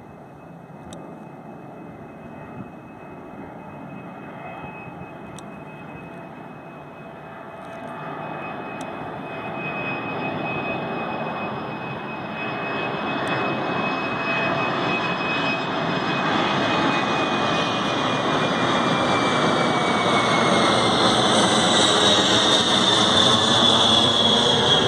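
Boeing 747-400F freighter's four jet engines growing steadily louder as it comes in low, a rushing roar with a high whine that falls in pitch near the end as it passes.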